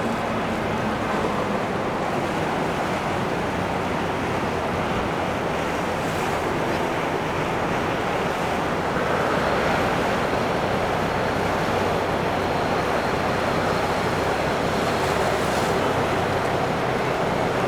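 Steady rushing of water and wind, with a faint low engine hum underneath: the sound of a motor boat under way on the water.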